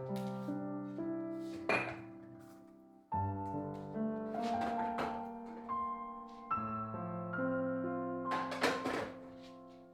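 Soft background piano music that dies away about three seconds in, then starts again and plays on. A few short clatters sound over it.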